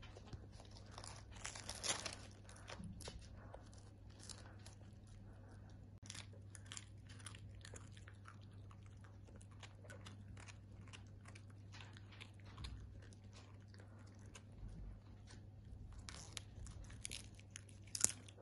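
A dog chewing and crunching food, with many quick sharp bites that come thickest near the start and again near the end. A steady low hum runs underneath.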